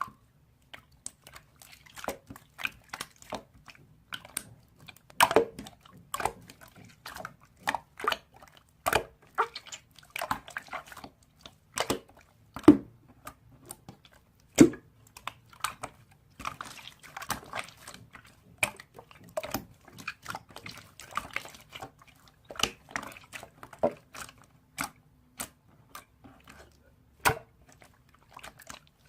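A run of short, irregular clicks and taps, several a second with brief pauses between them.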